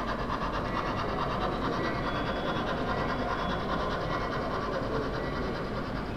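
Model train running along a layout's track: a steady mechanical whirr with a fast, even pulsing.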